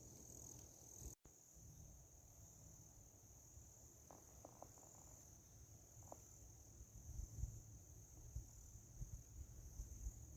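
Faint, steady high-pitched chorus of crickets or other insects, with a few faint short chirps in the middle. Low rustles and bumps grow louder over the last few seconds.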